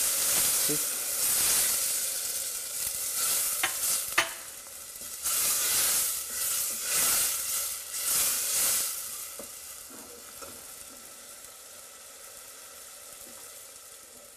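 A saucepan of frying onion-tomato curry base sizzling as a little water goes into the hot pan and a wooden spoon stirs it. The sizzle is strongest in the first couple of seconds and again about five to nine seconds in, with two sharp clicks around four seconds in, then settles to a quieter hiss as the sauce simmers down to soften the tomatoes.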